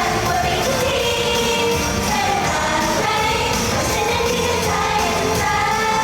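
Thai pop song performed live: a woman singing over loud music that carries on without a break.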